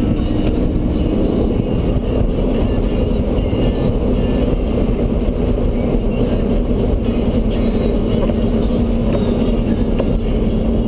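Ford Ranger pickup driving along at a steady speed: a continuous engine and road noise with a steady low hum.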